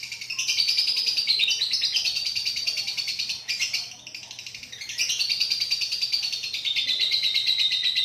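Lovebird singing a long 'ngekek': a rapid, continuous chattering string of high chirps that dips briefly about four seconds in, then picks up again.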